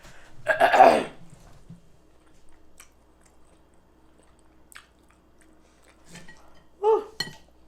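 Close-miked eating sounds: chewing and mouth clicks, with a loud, brief throaty vocal sound about half a second in and a shorter one near the end.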